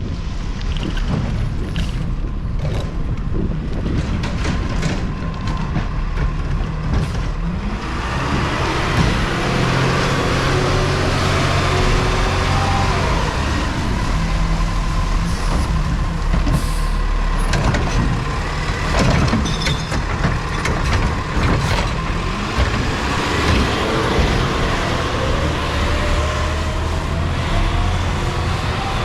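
Peterbilt 520 garbage truck with a Heil Curotto Can body, its engine running loud and rising and falling in pitch as it revs, with a few knocks.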